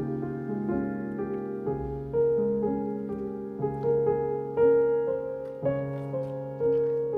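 Gentle background piano music: slow chords over a bass note that changes every couple of seconds.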